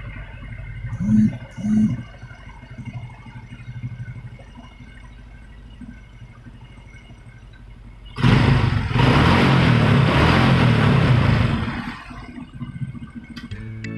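Motorcycle engine running: two short loud blips about a second in, a low steady running sound, then a louder surge for about three and a half seconds near the end before it drops back.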